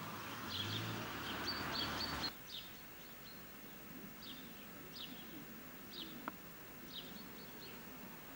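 Small birds chirping, short high chirps about one a second, over a steady rushing noise that cuts off abruptly about two seconds in; a single sharp click later on.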